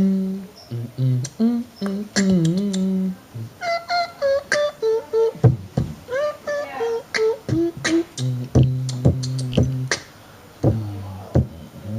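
Beatboxing in a rap track: rhythmic vocal clicks and pops mixed with short, bending pitched vocal notes, some low and some higher in a melodic run.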